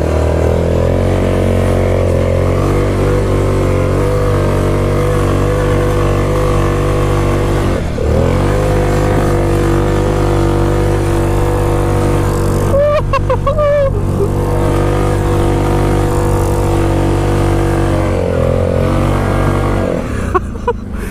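Yamaha Grizzly 660 ATV engine held at high, steady revs through a long drift in snow. The revs dip briefly about eight seconds in and fall away near the end.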